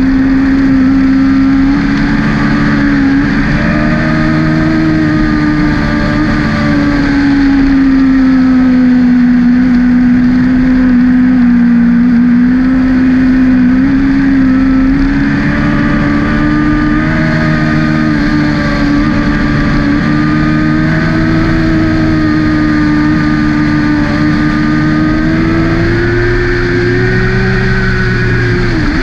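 Sport motorcycle engine running steadily at high revs, heard from a camera mounted on the bike, its pitch drifting gently up and down through the curves. Near the end the pitch climbs and then drops sharply.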